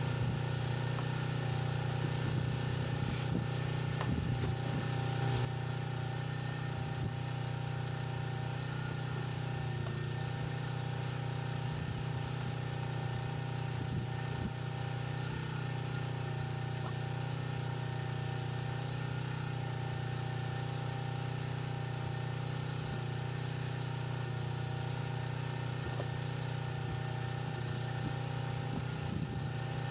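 An engine running steadily at an even speed, a constant low hum that drops slightly in level about five seconds in.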